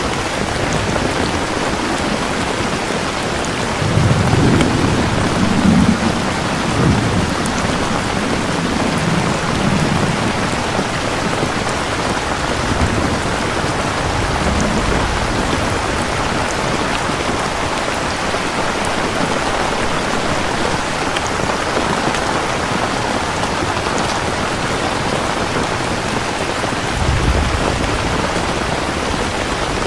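Steady heavy rain falling, with rolls of thunder rumbling low about four seconds in and again briefly near the end.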